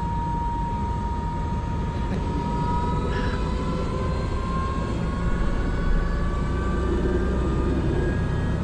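Airbus AS350 B3 helicopter heard from the cockpit: steady turbine and rotor noise with a whine that rises slowly in pitch.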